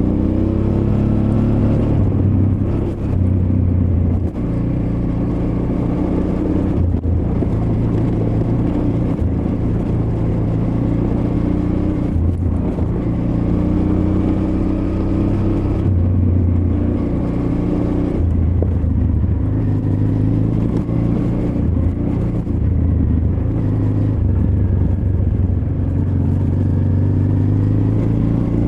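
Honda Transalp XL600V's 583 cc V-twin engine running off-road, its note rising and falling again and again as the throttle is opened and closed. A few sharp knocks come through early on and around the middle.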